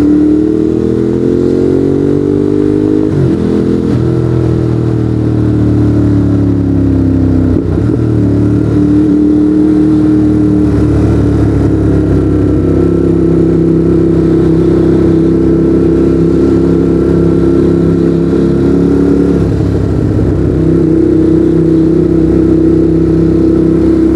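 Ducati Monster 821's L-twin engine through a Termignoni exhaust while riding. The engine note climbs for about three seconds, breaks briefly, sinks, then mostly holds a steady pitch, with another short break about three quarters of the way through.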